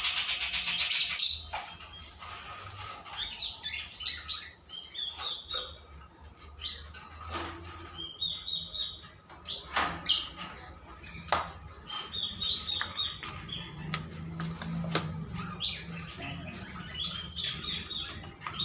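Small birds chirping, with short high calls every second or two, and a few sharp clicks or knocks in between.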